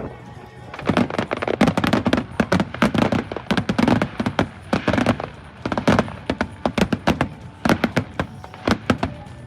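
Fireworks display: rapid, irregular volleys of sharp cracks and bangs, with a low rumble beneath them.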